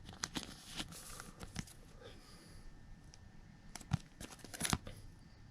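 Trading cards and their foil pack wrapper being handled: soft crinkling with light clicks and snaps, heaviest in the first second and a half and again around four to five seconds in.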